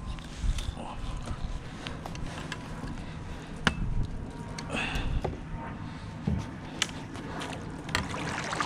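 Scattered knocks, taps and clicks with a few dull thumps, irregular and sharp, from gear being handled in a kayak.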